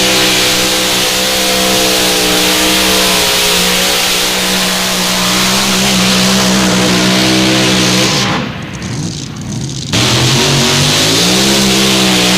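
Mini modified pulling tractor's engine running hard at high revs during a pull. Its pitch holds fairly steady. About two-thirds of the way through, the sound drops away for about a second and a half, then returns at full volume with the revs rising.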